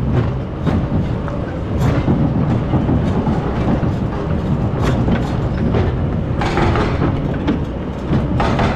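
Excavator working, its engine running steadily with scattered knocks and clanks. Two short rushing noises come in the second half.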